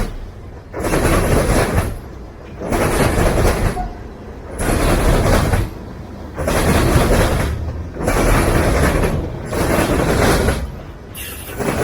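Freight train rolling past close by. A rush of wheel and rail noise swells and drops in an even rhythm, about once every two seconds, as the cars go by.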